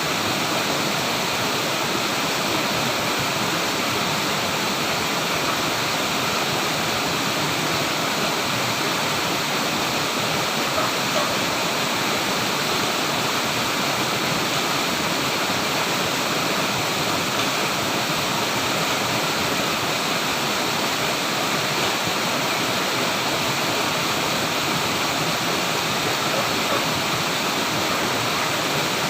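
Flowing water rushing steadily, an even, unbroken noise.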